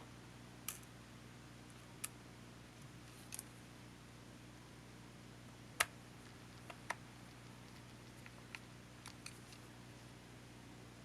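Scattered light clicks and taps of small tools and plastic parts being worked on a disassembled camcorder, about ten in all, the sharpest one about halfway through, over a steady low hum.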